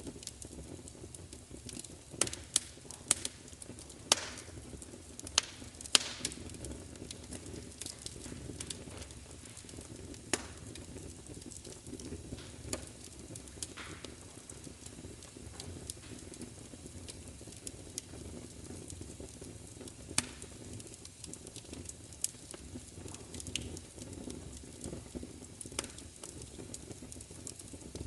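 Wood fire crackling, with irregular sharp pops and snaps over a steady low rumble of flame; a cluster of louder pops comes between two and six seconds in, and another single loud snap about twenty seconds in.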